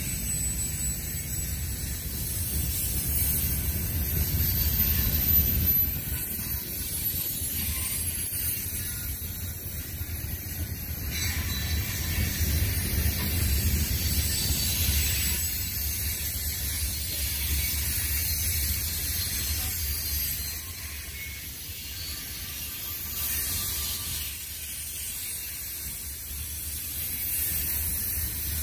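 CSX freight train's cars rolling past: a steady low rumble of steel wheels on the rails under a high hiss, with no locomotive in the sound.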